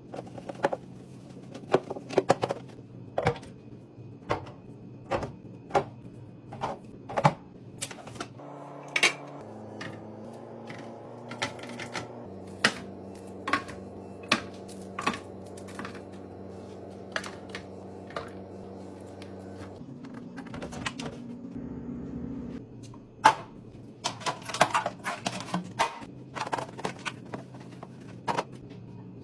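Quick irregular clicks, clacks and knocks of food containers and packages being handled and set down while a refrigerator is stocked and organized, with a dense flurry near the end. Under them runs a low steady hum of held tones that change pitch every few seconds.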